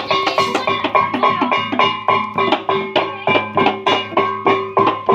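Javanese jaranan gamelan music: a fast, even beat of hand drums with ringing bronze gong-chimes holding steady pitches.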